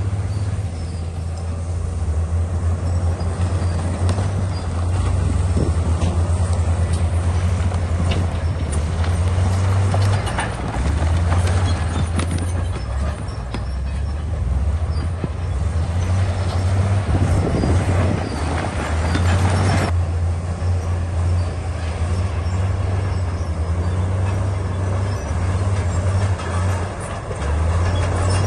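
Komatsu bulldozer's diesel engine running steadily under load, a deep hum, with a harsher, noisier stretch about two-thirds of the way through.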